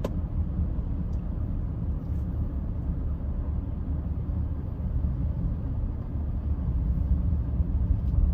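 Steady low rumble of a car driving along, heard from inside the car.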